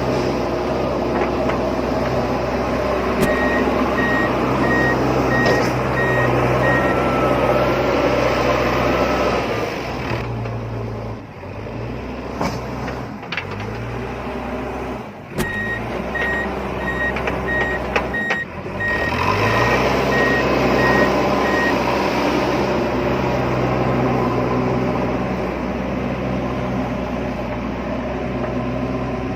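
Small electric motors of a remote-control toy JCB whirring steadily, stopping and restarting with their pitch sliding several times in the middle. A reversing-style beeper sounds in two runs of quick beeps, about two a second, for a few seconds each.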